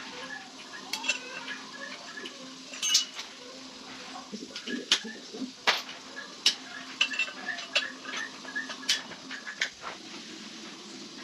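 Irregular metallic clinks and taps, like tools and metal parts being handled and set down, over a steady low hum.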